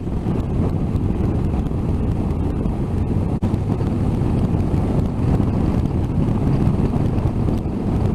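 Steady rush of wind over the microphone mixed with motorcycle engine and road noise while riding at speed, with a brief dropout about three and a half seconds in.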